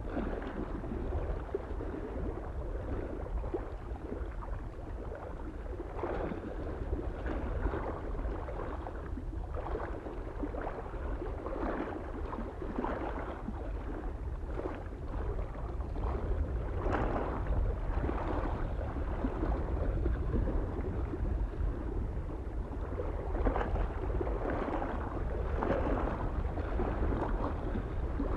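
Small waves lapping at a lake shore: an irregular run of little splashes and gurgles, over a low, steady wind rumble.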